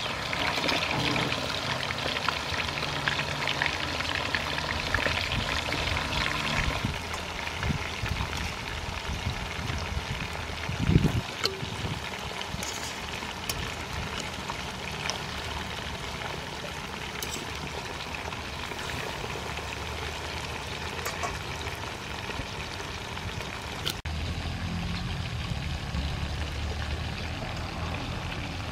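Chicken wings frying in hot soybean oil in a pan: a steady sizzle and crackle, busiest over the first several seconds, with one loud thump about eleven seconds in.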